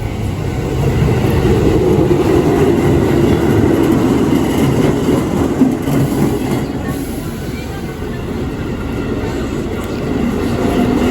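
Japanese train running along the rails: a loud, steady rumble of wheels and cars that swells over the first couple of seconds, eases slightly later on and builds again near the end.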